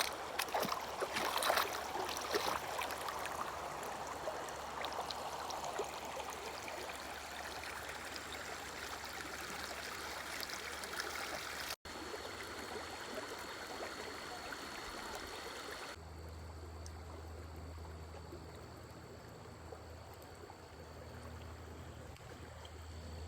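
Water flowing in a stream: a steady rushing, with a short break about twelve seconds in. From about sixteen seconds the sound turns duller, with a low steady hum underneath.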